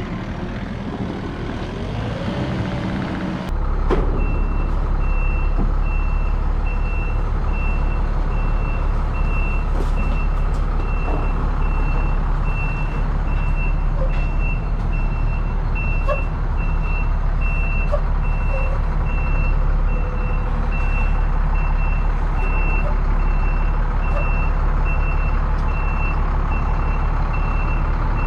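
A diesel work machine running with its backup alarm beeping steadily, about one beep every three-quarters of a second, as it reverses. The engine note steps up sharply a few seconds in, just as the beeping starts.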